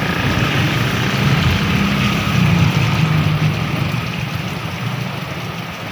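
Heavy rain falling steadily, with a motor vehicle's engine running close by and fading away over the last couple of seconds.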